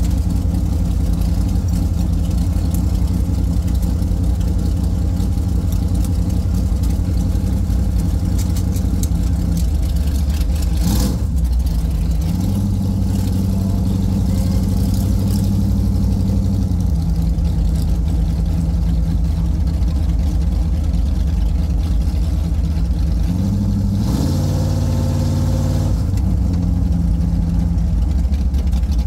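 Car engine running loud from inside the cabin as the car idles and pulls away at low speed. There is a short burst of noise about eleven seconds in, then the engine note steps up, and it rises again briefly near twenty-four seconds as the car accelerates.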